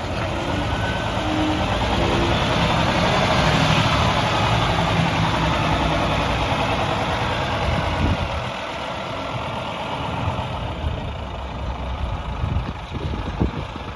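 Volvo FM tractor unit's diesel engine running, louder for the first eight seconds, then settling to a quieter idle.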